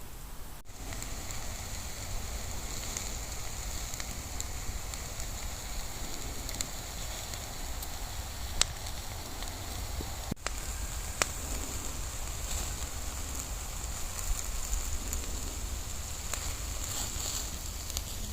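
Bonfire burning with a steady hiss and crackle, broken by a few sharp pops.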